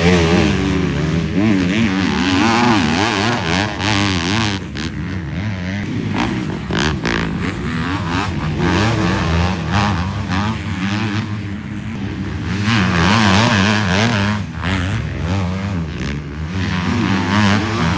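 250-class motocross bikes racing past, their engines revving up and down through the gears, with the loudest passes near the start, about two-thirds of the way in, and at the end.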